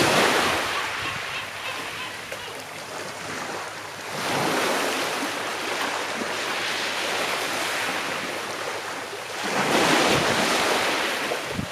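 Calm sea waves washing onto the shore: three surges of surf, each swelling and fading back, a few seconds apart.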